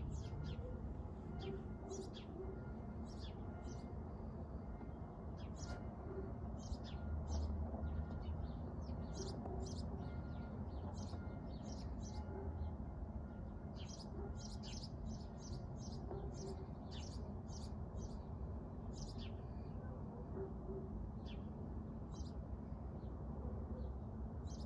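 Small birds chirping: many short, high chirps, scattered and coming in clusters, over a steady low rumbling background noise.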